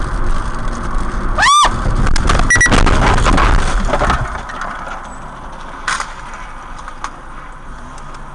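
Dash-cam audio from inside a moving car. About a second and a half in comes a short, loud cry whose pitch rises and falls. About two seconds of loud, harsh noise follows with a brief beep in it, typical of a hard stop or collision, and then the sound settles back to quieter road noise.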